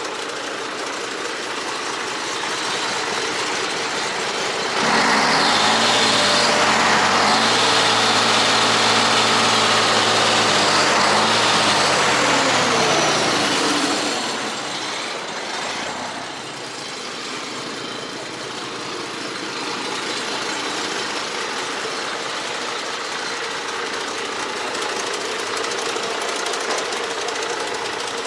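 Scania 113 380 truck's 11-litre inline-six diesel idling, revved up and down for about nine seconds starting about five seconds in, then settling back to a steady idle.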